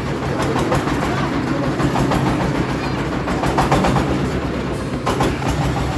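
Tractor engine running steadily, with a mechanical rattle and a few sharp clicks over the low engine note.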